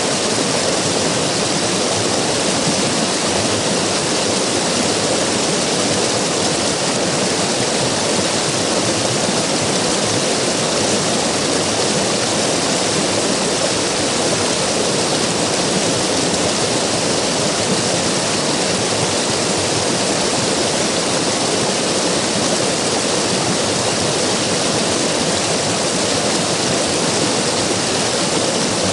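River water rushing steadily, a constant full rush with no changes.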